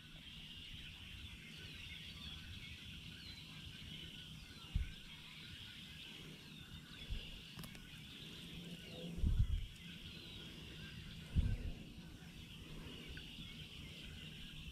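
Quiet creekside outdoor ambience: a steady high chorus of small chirps, with three soft low knocks spread through.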